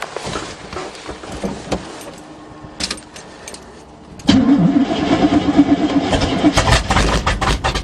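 A few light clicks, then, about four seconds in, the 1977 GMC truck's 400 small-block V8 is cranked by the starter and catches, running roughly on fuel primed into the carburetor after months of sitting.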